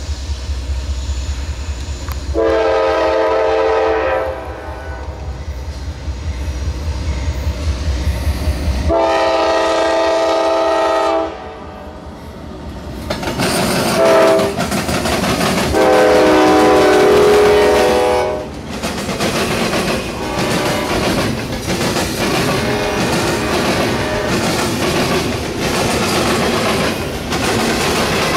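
Norfolk Southern diesel locomotive's air horn sounding the long-long-short-long crossing signal over a low engine rumble as the train approaches. The double-stack intermodal train's wheels then clatter rhythmically over the CSX diamond crossing as the cars pass.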